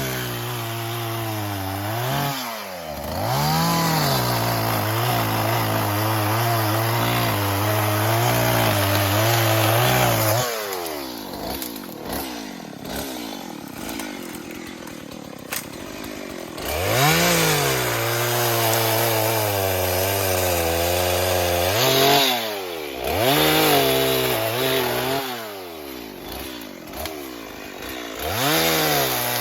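Small two-stroke engine of a handheld cutting tool revving up and held at high revs for about ten seconds while cutting catingueira wood. It drops back to a lower idle, then revs up again several times near the end.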